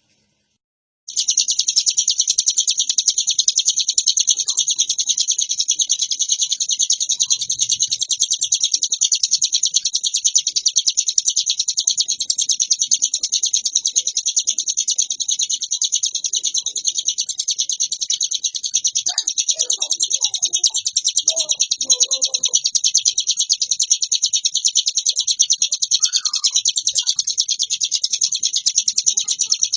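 Ciblek gunung, a prinia, singing nonstop: a dense, rapid, high-pitched chattering song with no pauses, starting about a second in.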